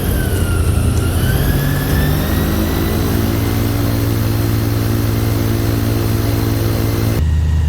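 Airboat engine and air propeller running loud, its whine dipping in pitch about a second in, then rising back over the next couple of seconds. Near the end the high hiss cuts off suddenly, leaving a low hum.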